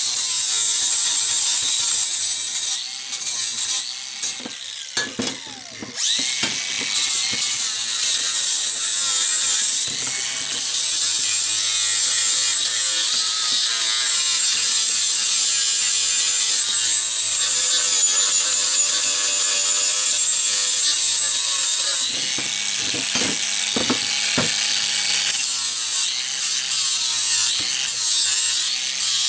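Angle grinder with a flap disc grinding down a welded steel bracket: a steady, loud, high-pitched grinding. It eases off and drops in level between about three and six seconds in, then carries on.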